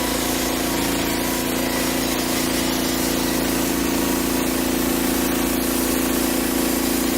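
Portable band sawmill's 13-horsepower Briggs & Stratton gasoline engine running at a steady speed, one even drone that does not change.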